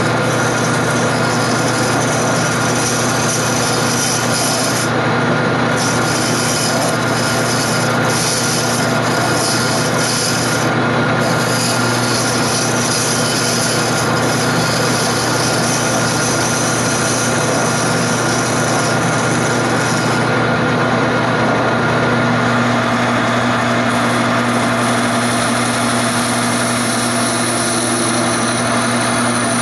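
Wood lathe running steadily with a turning tool cutting into the spinning wood of a chair leg: a continuous cutting and scraping noise over the steady hum of the motor.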